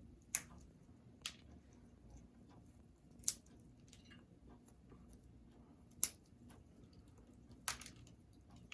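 Congo African grey parrot biting and tearing at a chew toy with its beak: five sharp snaps at uneven gaps of one to three seconds, with fainter clicks and nibbling in between.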